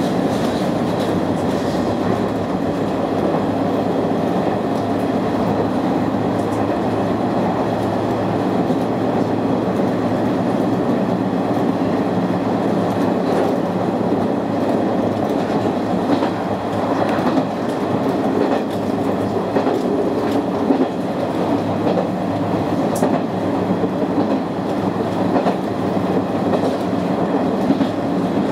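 Izuhakone Railway 3000 series electric train running at speed, heard from inside the car: a steady running rumble and hum, with the wheels clicking now and then over rail joints.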